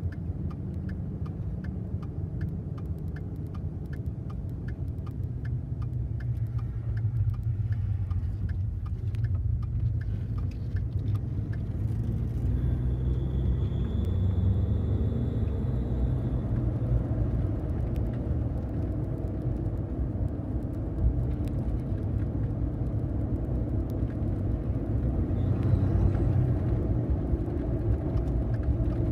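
Ford F-150's 3.5-litre EcoBoost twin-turbo V6 running, with a light chirp repeating a bit under twice a second through the first third, which the owner traces to the passenger-side turbo. A thin high whine sounds for a few seconds near the middle.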